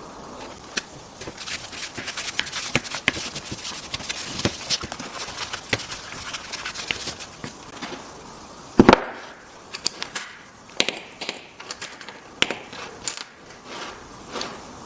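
Irregular clicks and knocks of wooden pieces and tools being handled at a workbench, thick in the first half, with one heavy thump about nine seconds in and scattered clicks after it.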